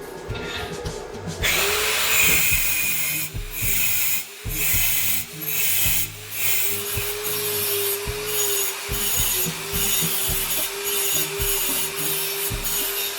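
An electric power tool working steadily, a dense grinding hiss over a steady motor whine. It starts about a second and a half in and breaks off briefly a few times.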